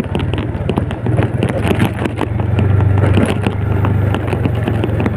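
Old Yamaha Vega motorcycle's single-cylinder four-stroke engine running steadily while riding a rough, unpaved mountain track, with many sharp knocks and rattles from the bumps. The engine grows louder about two to three seconds in.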